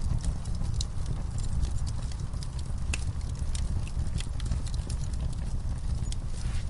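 Wood fire burning with a steady low roar and scattered sharp crackles and pops at irregular intervals.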